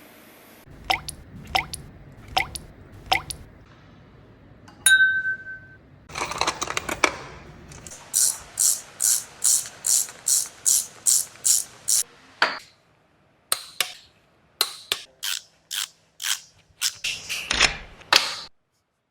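Hand tools working on engine parts: scattered sharp metallic clicks, then a run of about a dozen quick ratchet-wrench strokes, about two a second, followed by more clicks and strokes.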